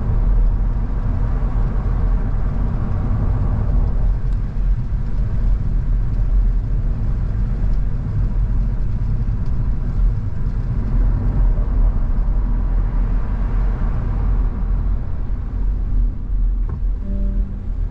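Car driving along a road: steady engine and tyre rumble that swells and eases gently, with a short tone near the end.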